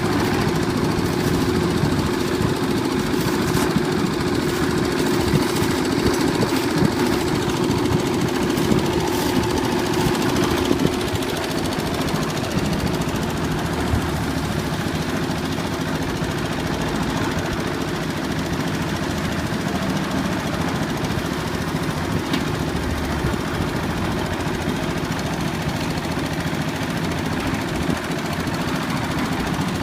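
Old diesel engine of a concrete mixer running steadily with a fast knocking beat. It becomes a little quieter about eleven seconds in.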